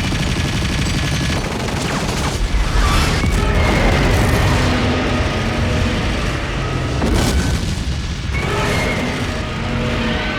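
Film battle sound effects: an attack-helicopter volley of missiles and gunfire, with a heavy booming rumble and sharp blasts about two to three seconds in and again near seven seconds, over orchestral score.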